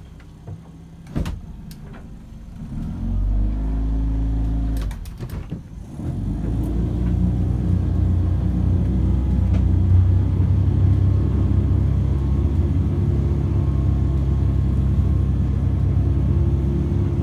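Boat engine under way: it picks up about three seconds in, drops briefly, then runs steadily louder from about six seconds on as the boat is manoeuvred around. A few sharp knocks in the first two seconds.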